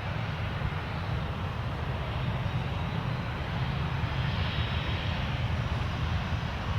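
Aircraft engines running, a steady rumble with a slight swell in the upper range about two-thirds of the way through.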